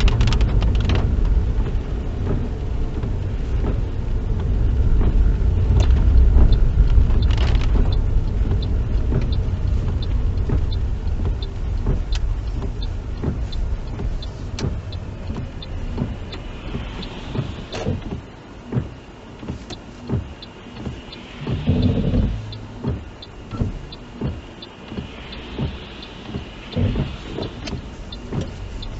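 Inside a moving car in the rain: a steady low engine and tyre rumble, scattered with short ticks and clicks. The rumble eases off from about eight seconds in as the car slows.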